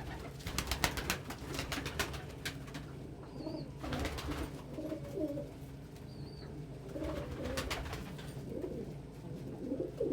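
Domestic pigeons cooing in low, wavering phrases, with scattered bursts of sharp clicks and rustling.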